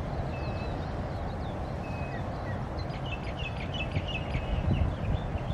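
Small birds chirping and whistling, a quick cluster of chirps about three seconds in, over a steady low rumble of outdoor background noise.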